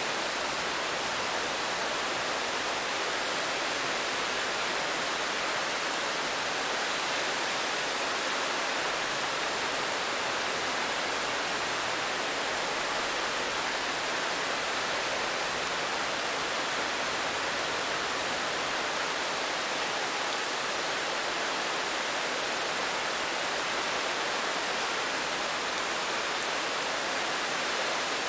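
Steady rain falling: an even, unbroken hiss with no single drops or gusts standing out.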